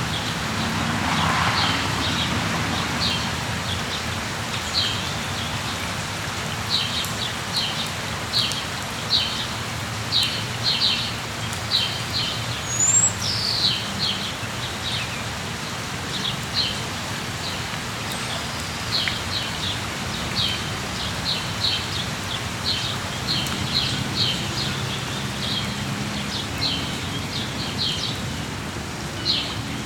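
Steady rain with a bird chirping over it: short, high chirps repeated one to two times a second through most of the stretch, with a quick whistled sweep about halfway through.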